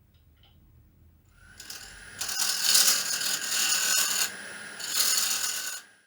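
Itin wood being worked on a running woodturning lathe: a hissy scraping against the spinning piece, with a faint steady motor whine underneath. The scraping comes in two passes, a longer one and then a shorter one, and cuts off suddenly near the end.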